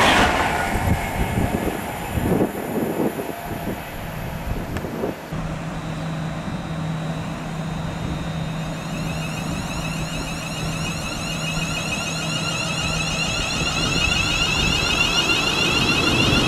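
Trains on the West Coast Main Line: a passing train dies away at the start, followed by a few low knocks and a steady low hum. From the middle on, another train is heard approaching at speed, its rush growing steadily louder toward the end.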